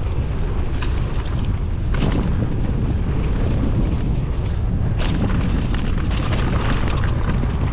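Heavy wind rumble on the microphone as a mountain bike runs a rough downhill trail, with scattered sharp knocks and rattles from the bike over bumps, the loudest about two and five seconds in.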